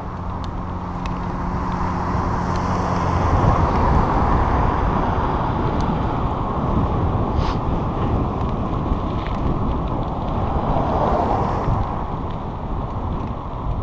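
Wind buffeting the microphone of a moving bicycle, a steady rumbling noise that grows louder about three seconds in, with a low steady hum beneath it for the first few seconds.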